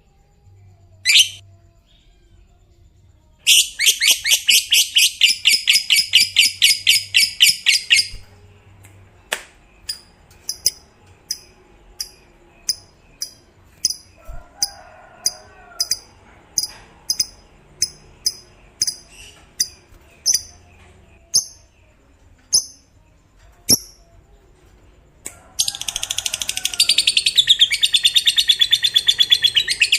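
Lovebird 'ngekek': long bursts of rapid, shrill chattering notes lasting several seconds, once in the first half and again near the end, with single sharp chirps repeated about every two-thirds of a second in between.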